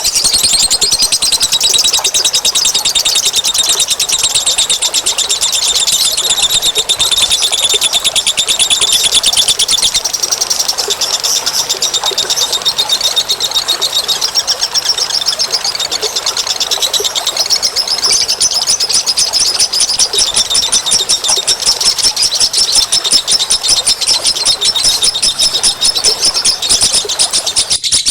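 Bird-lure recording of small birds giving a fast, high-pitched, continuous trilling chatter.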